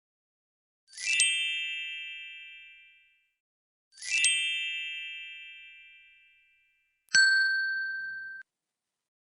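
Ding sound effects: two identical bright chime dings about three seconds apart, each ringing out and fading over about two seconds, then a different electronic ding that holds a steady tone for just over a second and cuts off suddenly.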